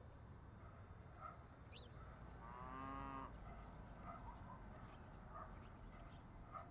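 Faint night forest ambience with scattered soft chirps. About two and a half seconds in comes a single short animal call with a clear pitch, lasting under a second.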